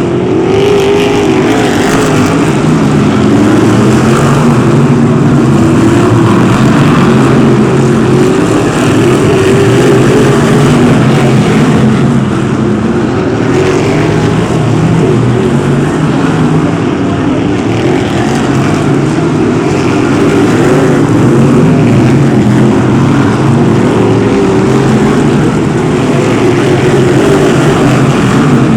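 BriSCA F1 stock cars' V8 engines racing around the track: a loud, continuous engine noise whose pitch wavers up and down as the cars accelerate and lift off.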